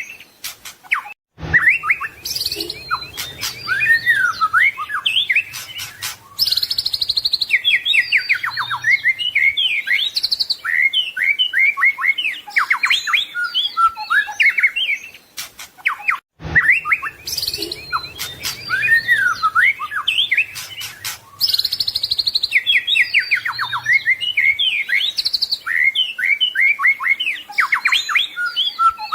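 White-rumped shama (murai batu) singing a fast, varied song of whistles, sweeps and trills, full of mimicked phrases from other birds. The same stretch of song comes round again about every fifteen seconds, each time after a brief dropout, as in a looped recording.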